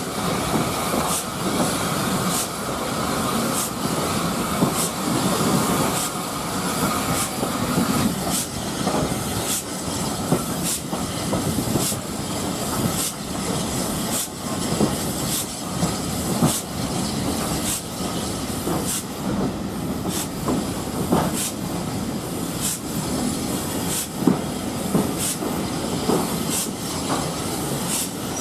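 Steam-hauled passenger train (SR Q Class 30541) running on the rails, heard from inside a carriage: a steady rumble of wheels on track, with regular sharp clicks a little under one a second.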